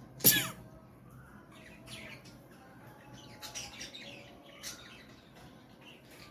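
Small birds chirping faintly now and then, with one loud, short sound with a falling pitch about a third of a second in.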